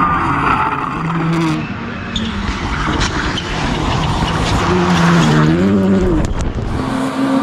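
Rally car engine running hard, its pitch rising and falling several times as it revs, over a steady rush of tyre and road noise.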